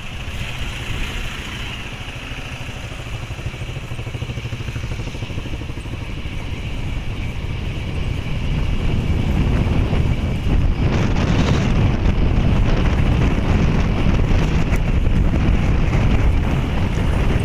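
A motor vehicle's engine running steadily while travelling along a road, with wind buffeting the microphone; it grows louder partway through.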